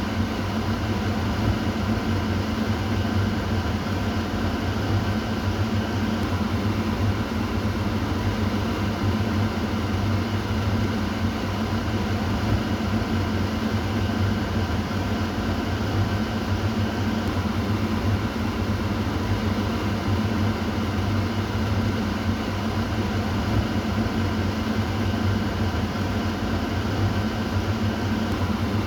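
Kitchen exhaust fan running steadily, a low motor hum under an even rush of moving air.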